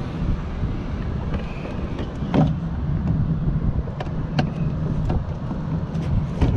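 Power window regulator motor of a 2008 Honda CR-V running, a low steady hum that starts with a clunk about two seconds in, over a steady low rumble, with a few sharp clicks.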